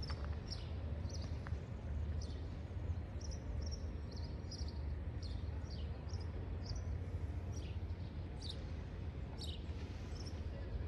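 Small birds chirping, short high calls repeated every second or so, over a steady low outdoor rumble.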